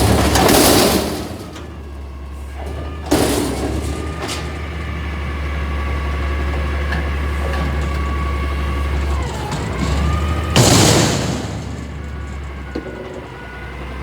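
CNG Peterbilt 320 front-loader garbage truck running, a steady low hum with a whine that dips in pitch and comes back up late on. Loud noisy bursts at the start and again near the end, and a sharp bang about three seconds in.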